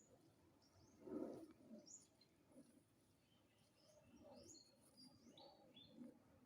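Faint chirping of small birds, many short high calls scattered through, with a brief louder low sound about a second in.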